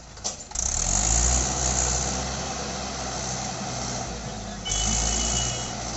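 Mahindra 475 DI tractor's diesel engine working hard as the stuck tractor strains with its loaded trolley. Its level jumps up about half a second in and surges again near the end, when a brief high steady tone also sounds.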